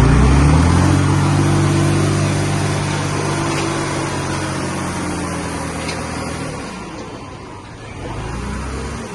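Heavy-equipment diesel engine revving up and then holding a steady note, dropping away about six and a half seconds in. A lower engine rumble returns briefly near the end.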